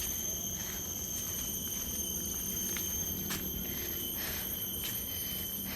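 A steady high-pitched whine that holds one pitch throughout, over a low rumble of walking and handling noise, with a few faint knocks.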